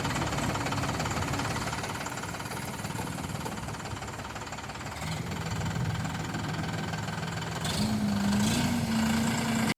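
Tractor diesel engine running with a knocking beat, then speeding up about halfway through, its pitch stepping higher and getting louder near the end.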